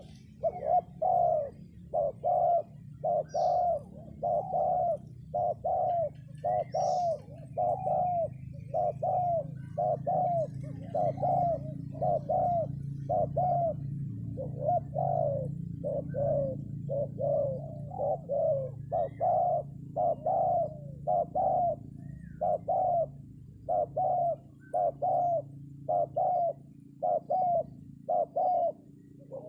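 Spotted dove (terkukur) cooing in a steady run of short, evenly spaced notes, about one a second, as used to lure wild doves down to a trap. A few faint chirps from small birds come through early on.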